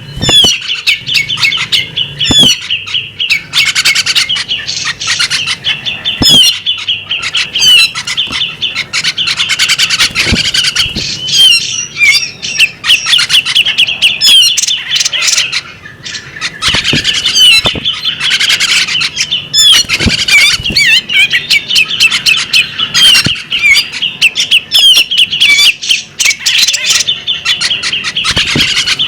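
Female magpie robin calling in a rapid, unbroken run of chirps, with many sharp clicks mixed in and a brief pause about halfway through.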